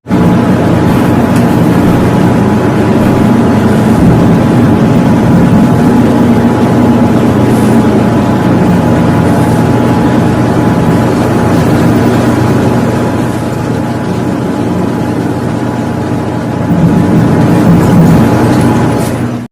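Loud, steady drone of a vehicle engine running at an even speed, with road or wind noise underneath.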